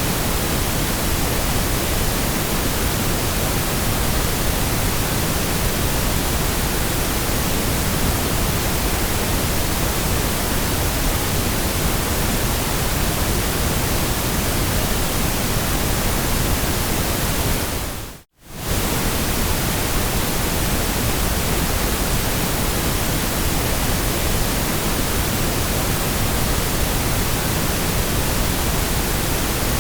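Steady white-noise hiss, even across all pitches, that briefly fades to silence and comes straight back about two-thirds of the way through.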